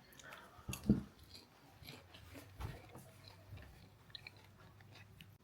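Popcorn being chewed close to the microphone: scattered soft crunches, the loudest about a second in.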